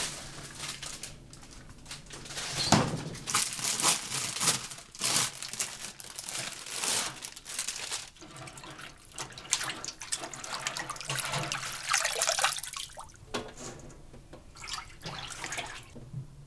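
Water from a kitchen tap splashing into a sink in uneven spurts, heaviest through the middle and easing off near the end.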